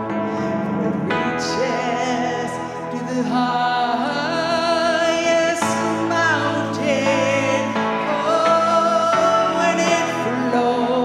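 Gospel song: a singer with heavy vibrato slides between notes over sustained keyboard chords.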